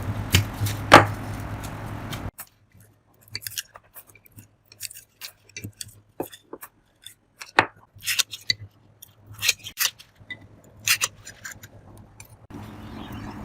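Irregular clicks, taps and knocks of metal parts being handled and worked by hand. Under the first two seconds a steady low hum, which cuts off abruptly.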